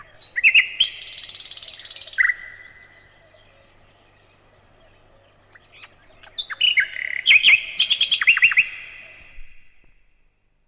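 Nightingale singing: two song phrases, the first with a fast rattling trill, the second a run of quick repeated whistled notes. The bird falls silent near the end.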